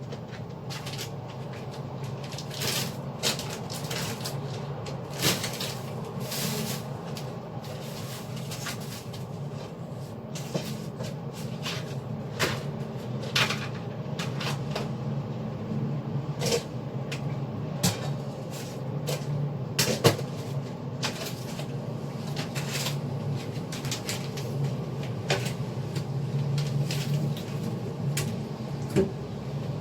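Irregular knocks and clatter, like things being handled and cupboards or doors opened and shut, over a steady low hum.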